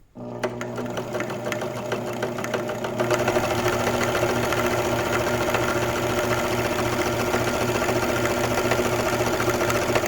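Vintage 1976 Elna TSP 72C sewing machine running and sewing a close-set wide zigzag, a satin stitch. Its motor hum steps up louder about three seconds in, with a steady pulsing beat of the needle, and stops abruptly at the end.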